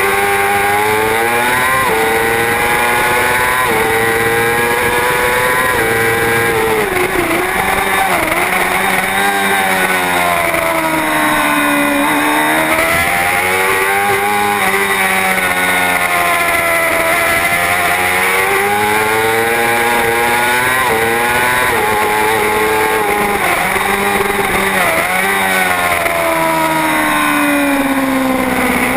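Superbike racing motorcycle engine at full race pace, its pitch climbing hard through the gears and dropping sharply on braking into corners, over and over, with steady wind rush.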